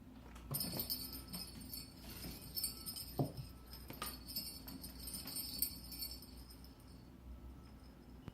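Small bell in a cat toy jingling in irregular bursts as a cat bats it about, with a few soft knocks, the loudest about three seconds in; the jingling dies away near the end.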